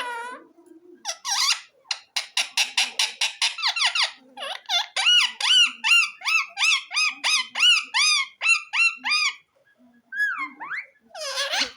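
Indian ringneck parrot calling: a fast run of short chirps, then a long series of evenly repeated rising-and-falling calls, about three a second. Near the end comes a falling note and then a louder squawk.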